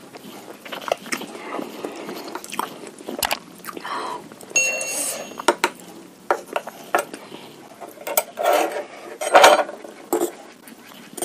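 Close-miked eating of meatball soup: biting and chewing, with spoon taps and clicks on the bowl and a single ringing clink of the spoon against the bowl about halfway through. Louder wet bursts of eating come near the end.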